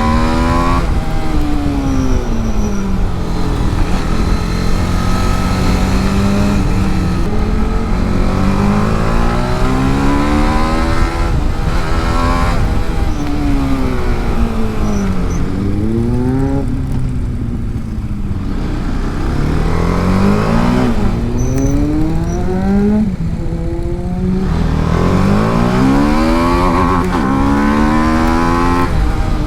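TVS Apache RR310's single-cylinder engine being ridden hard on track: the revs climb and fall several times as it accelerates, shifts and slows for corners.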